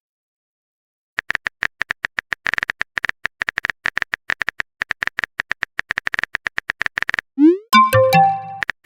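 Phone keyboard typing sound effect: a quick, irregular run of short clicks for several seconds. Near the end comes a brief rising swoosh and a short electronic chime of a few tones, like a chat message being sent.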